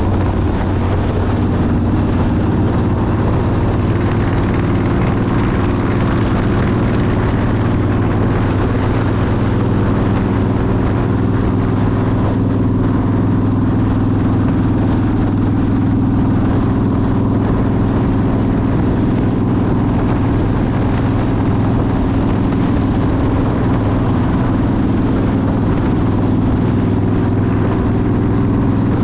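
Motorcycle engine running at a steady speed, its note holding even throughout under a constant rushing noise.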